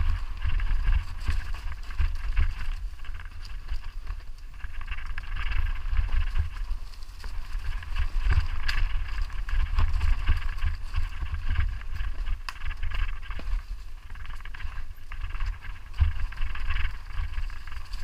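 Wind buffeting the microphone in a heavy, uneven low rumble, with scattered clicks and rattles over a steady hiss.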